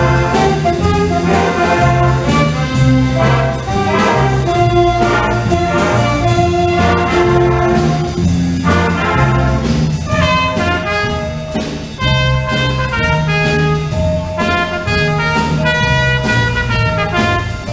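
Middle school band playing live, brass to the fore over a bass line, with a steady beat.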